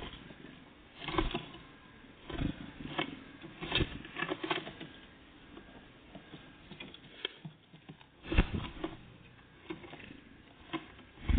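Small birds moving about at a feeder: irregular taps and knocks, a few louder thumps among softer ticks.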